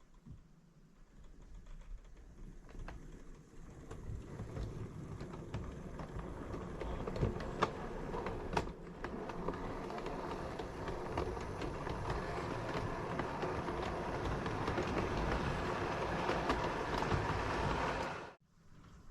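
Model 56XX tank locomotive and its train running along the layout's track, a steady rumble of wheels with clicks over the rail joints that grows louder as it approaches. It cuts off suddenly near the end.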